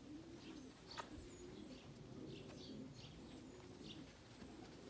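Racing pigeons cooing faintly, with a single sharp click about a second in.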